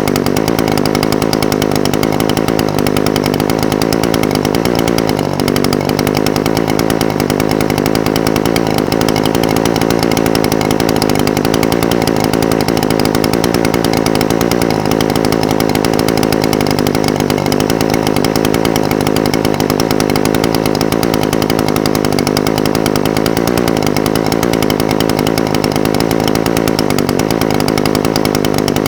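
Echo SRM-420TES two-stroke brush cutter engine idling steadily, its pitch wavering slightly now and then.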